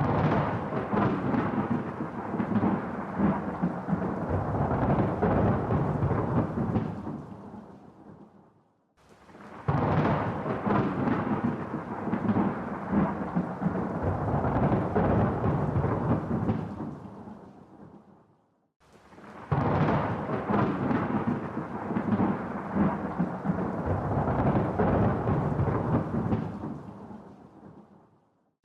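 Thunder: three long rolls, each starting suddenly, rumbling for about eight seconds and fading away, with short near-silent gaps between them.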